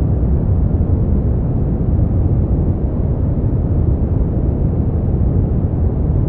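Continuous sleep-aid noise: a steady, deep, muffled hiss with most of its weight low down and little bright top, unchanging throughout.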